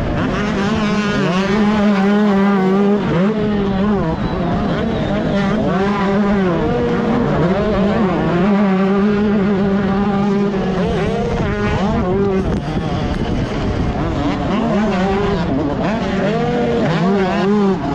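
125cc two-stroke motocross bike engine at racing speed, its pitch rising and falling again and again as the throttle opens and closes and the gears change.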